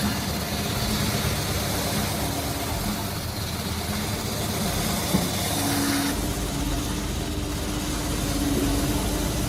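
A workshop power tool's motor running steadily with a hum, its pitch and rumble changing about six seconds in.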